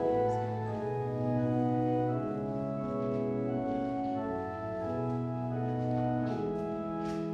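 Organ playing slow sustained chords that change every second or two.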